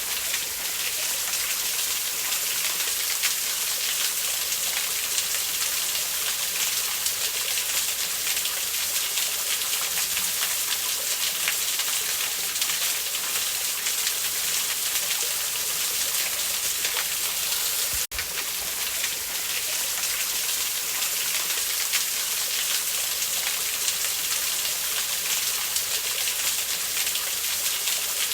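Steady rushing of a waterfall, an even hiss strongest in the high end, briefly cutting out about eighteen seconds in.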